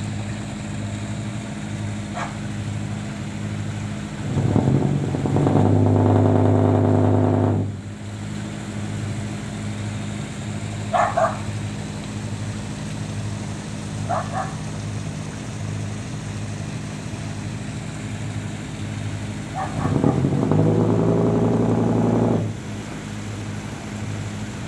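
A wooden fishing boat's inboard engine running slow with a steady, even chug, opened up twice to a louder, higher run (about four seconds in for a few seconds, and again about twenty seconds in) as the boat is manoeuvred alongside. Two brief, sharp, higher sounds come in between the two runs.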